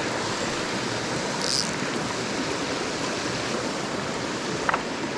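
Steady rush of a shallow mountain stream running over rocks, with a short higher hiss about a second and a half in.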